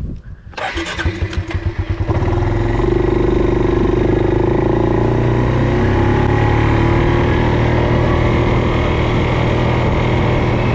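A small vehicle engine starts up: it turns over unevenly and catches about two seconds in, then runs steadily and loudly close by.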